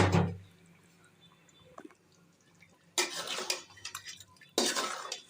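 A heavy thump in a cooking pot right at the start. Then a spoon stirs and scrapes chicken through the spice paste, in two bouts, one about three seconds in and one near the end.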